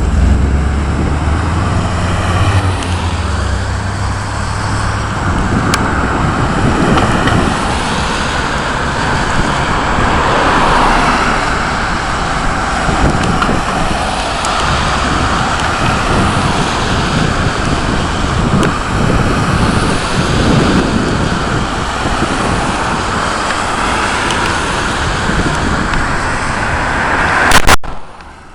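Thunderstorm: steady rain and wind buffeting the microphone, with a low rumble of thunder in the first few seconds. The sound cuts off suddenly near the end.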